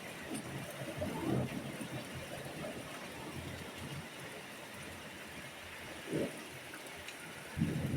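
Steady hiss of rain during a thunderstorm, with a few short low sounds about a second in, around six seconds and near the end.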